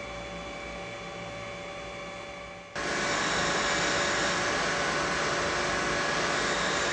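Double-head CNC profile cutting machine running with a steady hum and whine. About three seconds in, the noise jumps suddenly to a much louder, steady rush.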